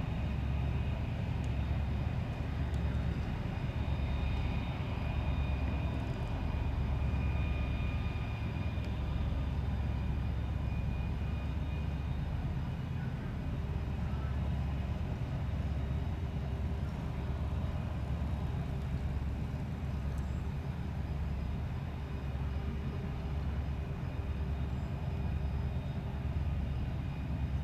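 Steady low drone of a towboat's diesel engines pushing barges upstream, with a faint high whine over the rumble.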